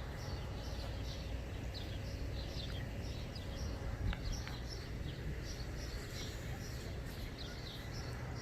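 Birds chirping in many short, repeated calls over a steady low background rumble.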